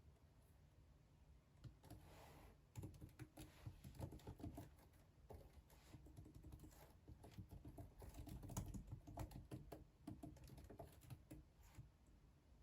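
Quiet typing on a computer keyboard: soft key clicks in irregular bursts with short pauses.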